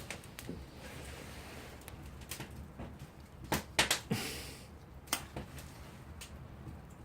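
Scattered knocks and clicks, a few a second at most, with the loudest cluster about three and a half to four seconds in, over a steady low background rumble.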